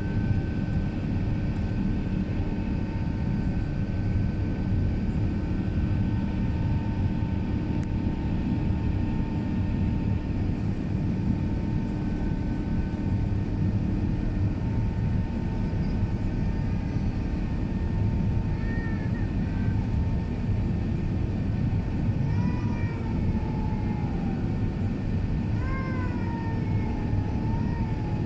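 Steady low rumble of an Airbus A380's engines and airflow heard in the passenger cabin, with a few faint steady tones over it. In the second half come several short, wavering high cries.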